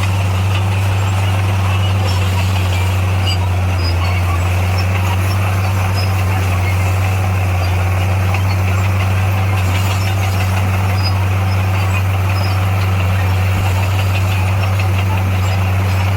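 Heavy diesel engine of a bulldozer running steadily at an even speed, a deep constant drone with no change in pitch.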